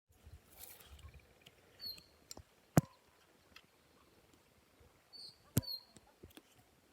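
Short high chirps from birds, with a few sharp clicks; the loudest click comes about three seconds in and another near six seconds.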